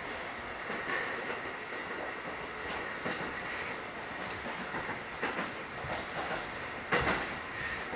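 Interior running sound of a 1960-built ex-Keikyu 1000-series electric train car, the Kotoden 1080 series, moving along the line. Under a steady rumble and a high whine, the wheels knock over rail joints about every two seconds, the loudest knock near the end.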